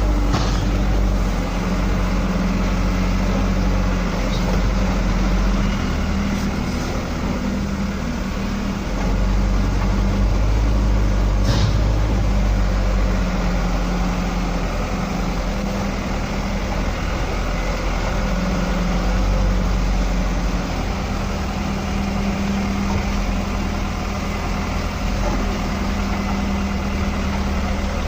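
Truck engine running steadily, a low hum whose pitch shifts slightly now and then, with one short click partway through.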